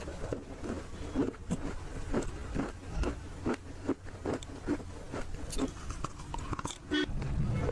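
Close-up chewing and crunching of dry edible clay (nakumatt), with irregular crisp crunches several times a second.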